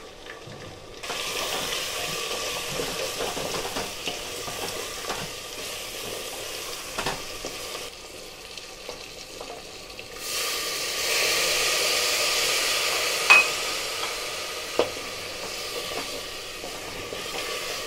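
Mutton and spice masala sizzling in a pressure cooker while being stirred with a spatula, with a few knocks of the spatula against the pot. The sizzle swells suddenly about ten seconds in, then slowly dies down.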